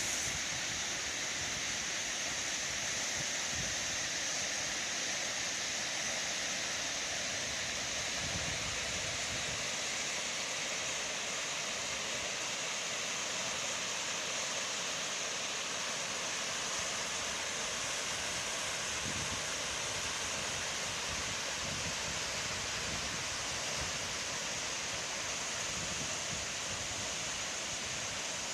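Waterfall and rapids pouring over smooth rocks: a steady, unbroken rush of water.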